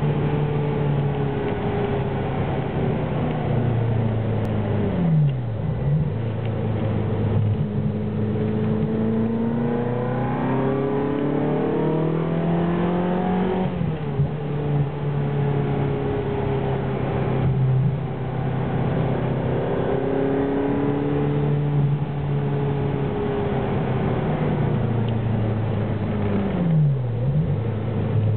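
Ferrari Enzo's V12 engine running under load, its revs climbing slowly for several seconds and then dropping, with two brief sharp dips and recoveries in pitch.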